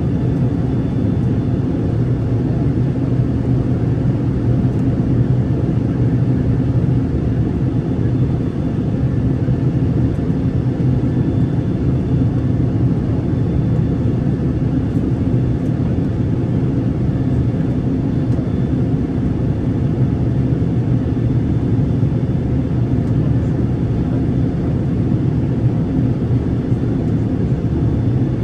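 Steady cabin noise of an airliner in flight, heard from inside the cabin: a constant low rumble of engines and rushing air with a faint steady hum, unchanging throughout.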